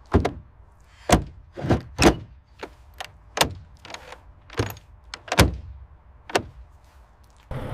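About a dozen sharp knocks and clunks of hard objects, at irregular intervals with quiet between them, several of them louder than the rest.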